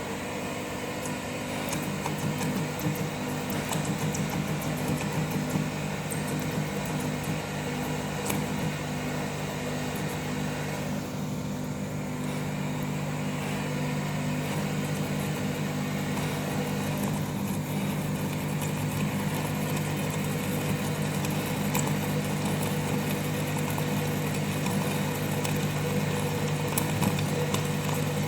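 Electric arc furnace running during the melt: a steady electrical hum with a broad rushing noise and irregular crackling clicks.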